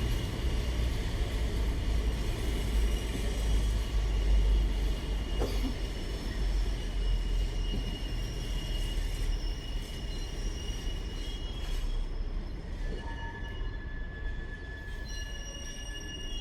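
Intermodal freight train hauled by a Class 66 diesel locomotive rolling through, its container wagons making a heavy low rumble that slowly fades as the train moves away. Thin high wheel squeal tones run over the rumble.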